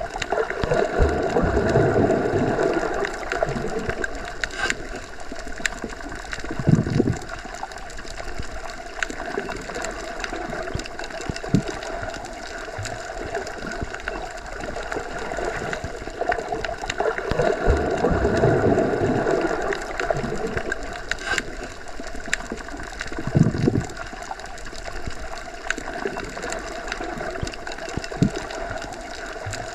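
Underwater ambience as heard with the ears submerged: a steady muffled rushing hum with faint steady tones and scattered small clicks. Louder swells of rushing come and go twice, each followed a few seconds later by a dull thump, the pattern repeating about every 16 seconds.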